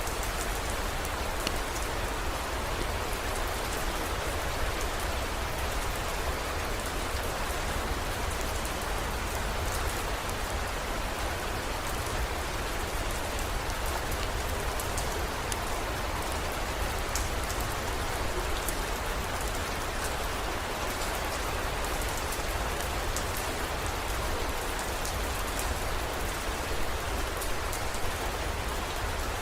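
Heavy rain falling steadily: a dense, even hiss with scattered high drop ticks and a steady low rumble beneath.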